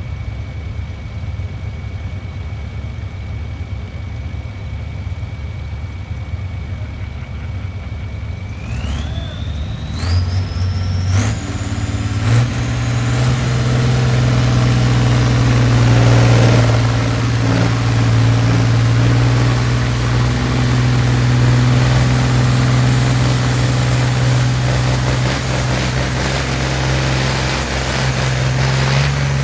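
A pulling tractor's engine revving up under full load. A high whine holds steady, then climbs in steps to a very high pitch about nine seconds in. The engine grows loud about ten seconds in and keeps running hard at high revs.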